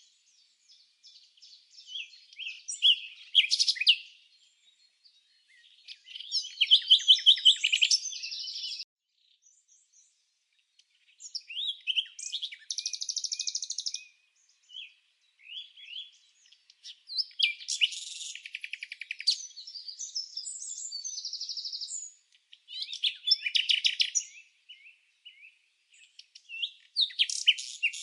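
Bird song: high chirps and fast trilled phrases, each a second or a few seconds long, coming in bouts separated by short silences.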